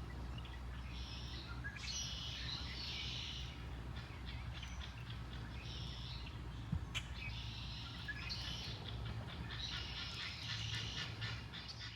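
Birds chirping in several short bouts over a steady low hum, with one sharp click about seven seconds in.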